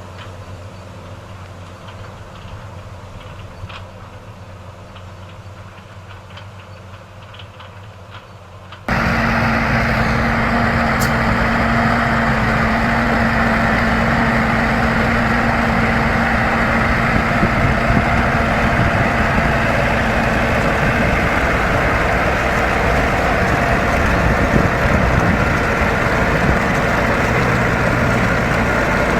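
Heavy farm machinery running, quieter with faint ticks at first. About nine seconds in it cuts suddenly to a loud, steady engine and machine noise with a steady hum.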